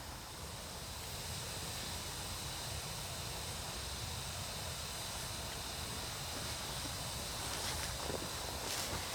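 Small wood fire with a metal canteen of water heating over it on a pot stand: a steady hiss over a low rumble, with a few faint clicks near the end.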